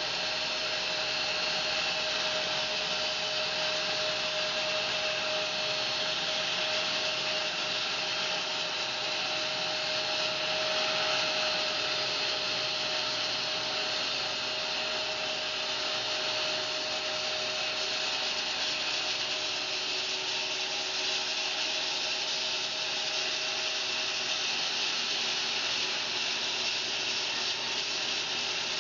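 Home-built bandsaw mill cutting lengthwise through a 23-inch fir log: a continuous, even sawing hiss from the blade in the wood, with a steady whine underneath that fades out about two-thirds of the way through.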